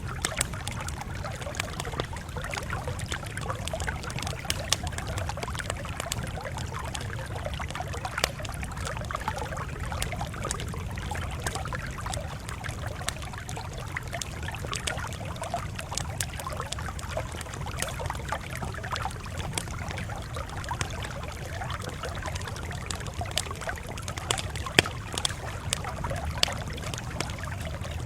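Campfire crackling, with many small snaps and an occasional louder pop over a steady low rumble.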